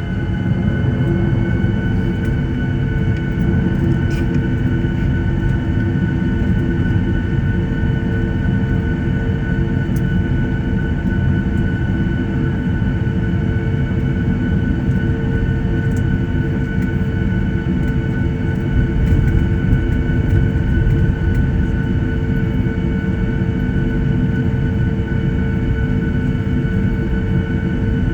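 Boeing 737-800 heard from inside the cabin on the ground after landing, its CFM56 turbofan engines at idle: a steady low rumble with several steady whining tones over it.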